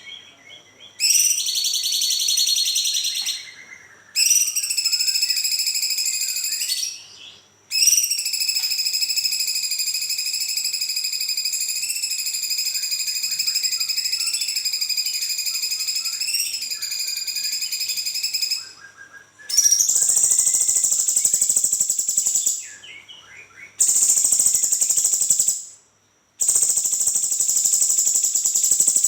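Cucak cungkok songbird singing long rolling trills, in high-pitched bouts of several seconds broken by short pauses, one bout running about ten seconds; near the end the bouts turn higher and harsher.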